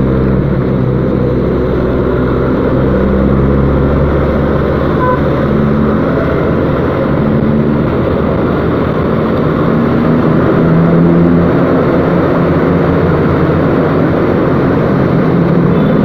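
Yamaha Byson motorcycle engine running on the move, its pitch rising and falling as the throttle changes, over a heavy low wind rumble on the camera microphone.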